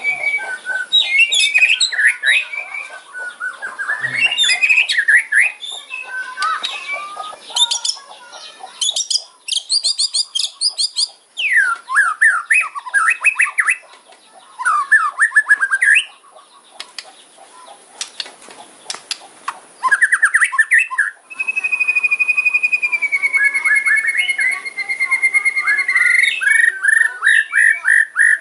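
White-rumped shama (murai batu) singing a loud, varied fighting song: rapid chirps and crackling rattles mixed with trills, and one long whistled note held for several seconds about three-quarters of the way through.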